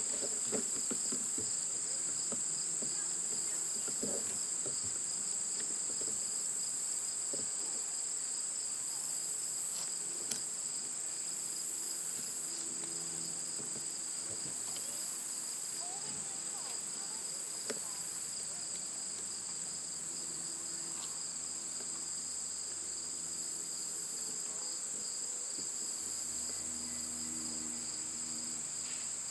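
Chorus of late-summer insects singing: a steady high-pitched buzz with a pulsing trill a little lower, and two sharp ticks about ten and eighteen seconds in.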